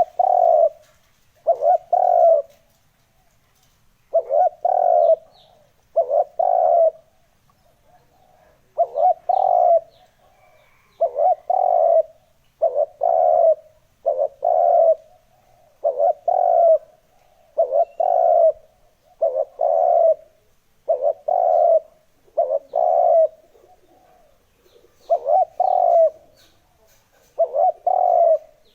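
Spotted dove cooing: a steady run of short double coos, one pair about every one and a half to two seconds, with a few longer pauses. This is the call used to stir up and lure wild doves.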